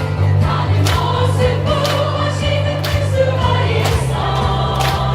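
A choir singing to music with sustained bass notes and a steady beat of percussion hits.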